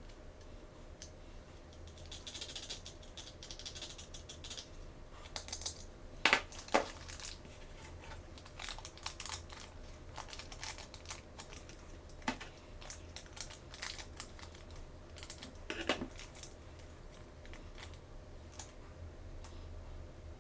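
Small plastic toys and their packaging being handled: scattered light clicks and taps with some soft crinkling, and a few sharper clacks, two close together about six seconds in and another near sixteen seconds.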